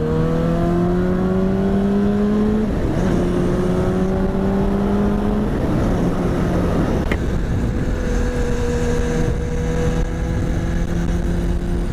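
Honda CBR600RR's inline-four engine pulling hard under acceleration: its pitch climbs steadily, drops at gear changes about three and five and a half seconds in, then holds nearly steady.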